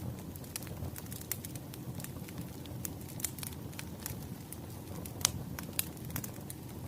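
Wood fire crackling, irregular pops and snaps over a low steady rumble, with one sharper pop about five seconds in.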